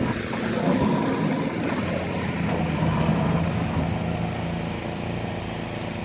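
An engine running steadily, its hum over a noisy rush, starting right after a cut.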